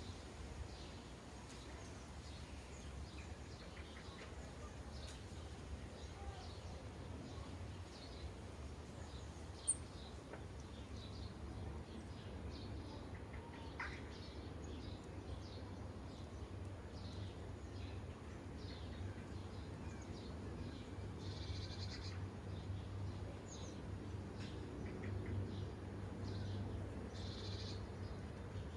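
Sparrows chirping at bird feeders: many short, high chirps, more frequent in the second half, over a steady low hum. There is one sharp click about ten seconds in.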